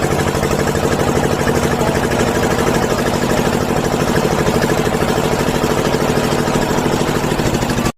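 Diesel engine running steadily at idle, with a fast, even train of firing knocks.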